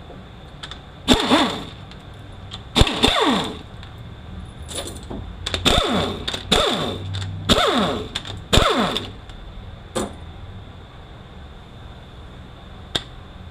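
A cordless power tool runs in six short bursts, each whir falling in pitch as it spins down, while valve body bolts are backed out of a U760E automatic transmission. Two sharp clicks follow near the end.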